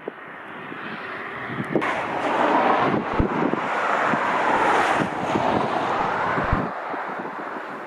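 Jet airliner's engines rushing as it passes, swelling over the first couple of seconds, loudest around the middle and easing off near the end. Heavy wind buffets the microphone throughout, with low gusty thumps.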